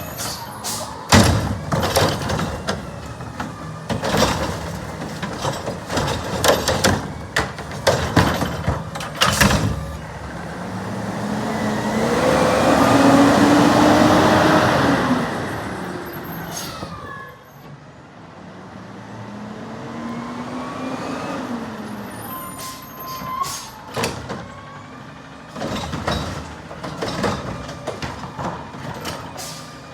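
Garbage truck working: repeated sharp clanks and knocks, then about ten seconds in the engine revs up with a rising whine that swells for several seconds and falls away. A second, shorter rising whine comes a few seconds later, and the clanking resumes near the end.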